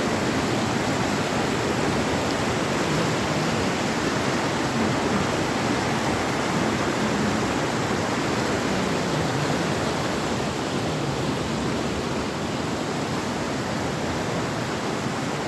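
Betwa river water flowing over a low temporary bridge, a steady, even rushing.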